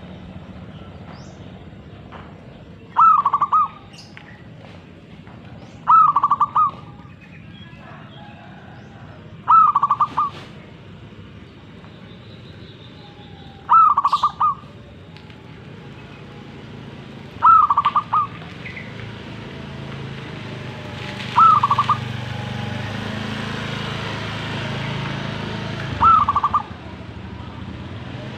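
Zebra dove (perkutut) cooing: a short burst of quick staccato notes, repeated seven times about every three to four seconds. A hiss comes up for several seconds near the end.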